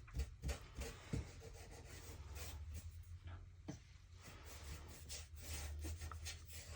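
Faint rubbing and small scattered clicks of hands gluing and pressing a small piece of decoupage paper onto wood, over a low steady hum.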